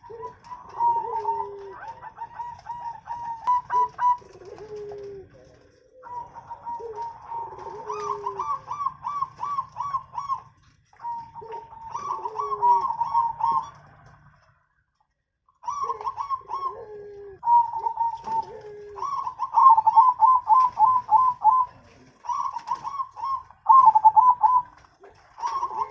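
Zebra doves (perkutut) cooing: repeated phrases of a lower drooping note followed by a quick run of short, higher notes, overlapping as if from more than one bird, with one brief pause about two thirds of the way through.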